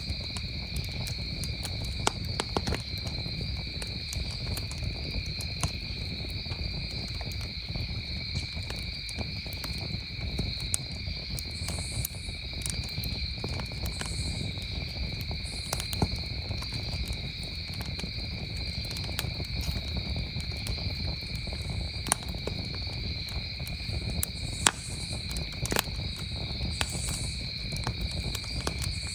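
Campfire crackling with scattered sharp pops, over a steady chorus of crickets chirping at two pitches. A low steady rumble runs underneath.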